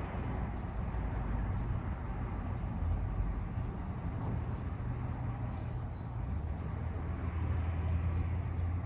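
Steady low rumble of background vehicle or traffic noise, with a brief high chirp about five seconds in.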